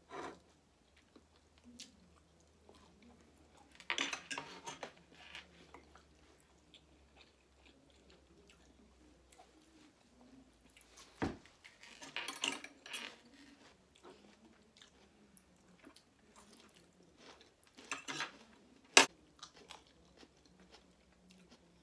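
Close-miked eating sounds: chewing and biting into kebab and salad in scattered short bursts, with a low thump about halfway and a single sharp click near the end, the loudest sound.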